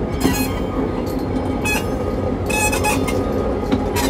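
Diesel locomotive and passenger train rolling slowly past close by: a steady low rumble of engine and wheels on rail, broken by several short bursts of high-pitched wheel squeal.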